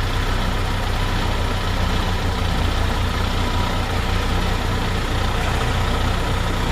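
Excavator's diesel engine running steadily at low revs.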